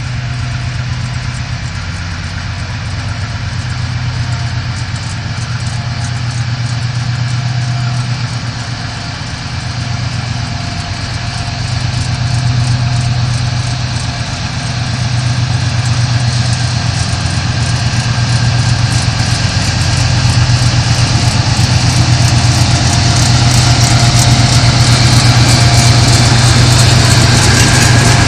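Several diesel-electric freight locomotives running as they approach and draw level, a steady low engine drone growing louder, with a rushing hiss building over the last few seconds.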